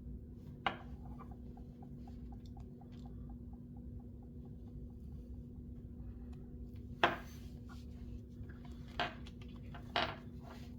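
Earphone box and accessories being handled during unboxing: a sharp click, then a run of faint even ticks about five a second, then three sharp clicks and knocks near the end, the first of these the loudest.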